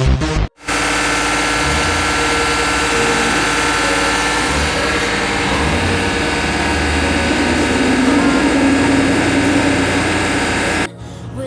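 2018 Chevrolet Silverado V8 engine running steadily with a misfire on cylinder 7, which the mechanic traces to a failed number 7 fuel injector that makes the engine pour white smoke. It starts abruptly after a brief stretch of music and cuts off suddenly near the end.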